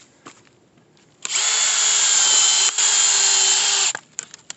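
Power drill spinning a screw-type firewood splitting bit into a log. It starts about a second in, runs steadily with a brief dip midway, and stops near the end.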